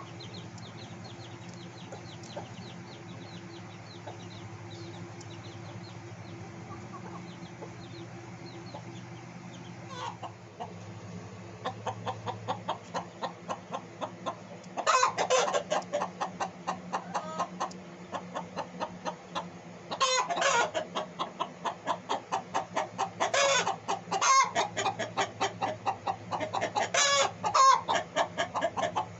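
Chickens clucking in quick runs of short calls, several a second. The calls start to build about eleven seconds in and are loudest in repeated bursts over the second half. Before that there is only a steady low hum with faint chirps.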